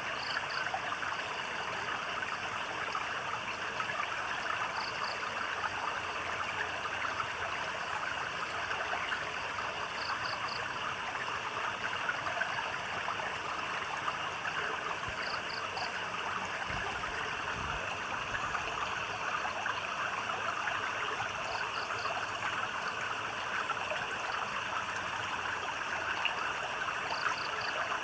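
A stream babbling steadily. About every five seconds a small night animal gives a short, high call of two or three quick chirps.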